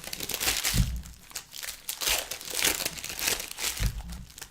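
Trading card pack wrappers crinkling and tearing as packs are opened and the cards handled, with irregular rustles and a couple of soft thumps on the table.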